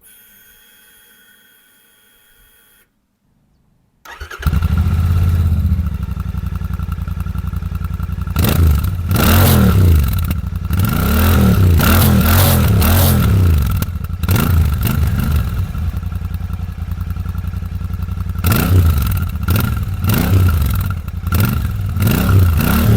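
A faint steady whine for about three seconds, then the Royal Enfield Shotgun 650's 648 cc parallel-twin with 270° crank and stock exhaust starts from cold about four seconds in and idles with a deep, even pulse. Throttle blips rise and fall repeatedly in the middle and again near the end, with a steady idle between.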